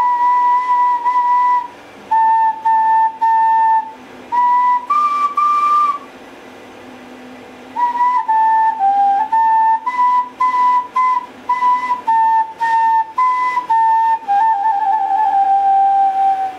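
A flute playing a simple melody, one clear note at a time. There is a pause about six seconds in, then shorter notes resume, and it stops abruptly at the end.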